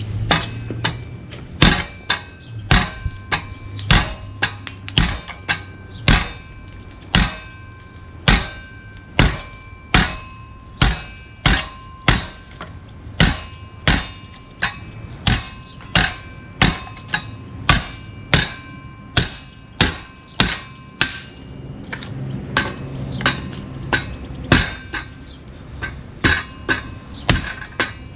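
Bowie knife with a 52100 steel edge chopping into a wooden 2x4, sharp blows about two a second. A ringing note carries between the blows until about two-thirds of the way through.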